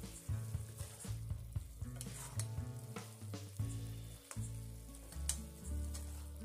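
Chicken pieces sizzling as they fry in a black pan, stirred with a metal spatula that scrapes and clicks against the pan, over low held tones that change pitch every second or so.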